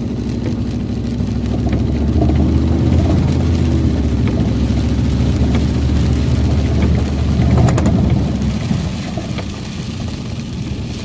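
Car engine and road noise heard from inside the moving vehicle's cabin. The engine hum builds, as under acceleration, holds for several seconds, then eases off near the end.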